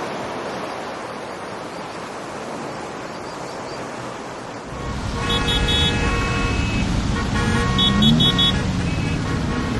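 Street traffic: a steady hiss, then from about halfway a vehicle's low rumble, with a horn sounding in quick short toots twice.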